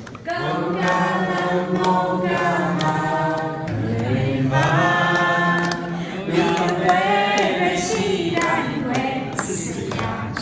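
Voices singing together in long held notes, choir-like and with no clear accompaniment, with a few light taps among them.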